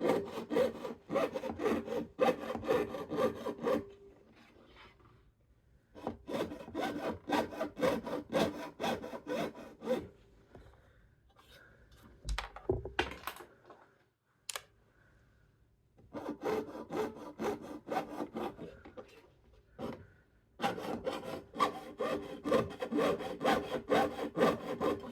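Jeweller's saw cutting 22-gauge copper sheet with rapid, even up-and-down strokes in several runs. The runs are broken by short pauses, and a dull thump comes about halfway through.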